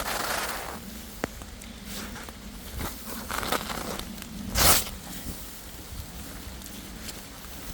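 Footsteps crunching and rustling through leaf litter and undergrowth, with a sharp snap a little after a second in and the loudest crunch about four and a half seconds in.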